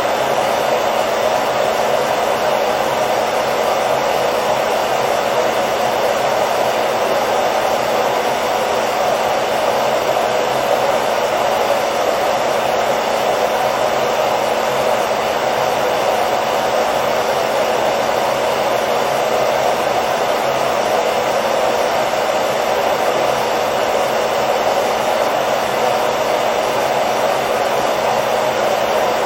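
Hair dryer running continuously: a steady, unchanging whooshing blow, strongest in the mid range, with a faint motor hum beneath.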